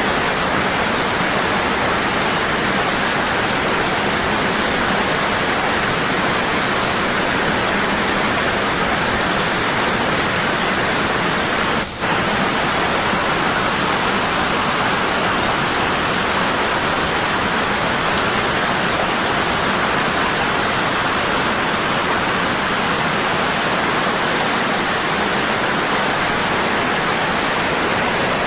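Waterfall rushing, a strong, constant fall of water. A very brief dip in level about twelve seconds in.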